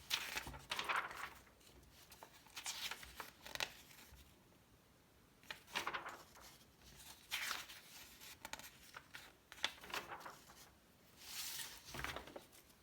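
Magazine pages being turned by hand: about six rustling, crinkling swishes of paper a second or two apart.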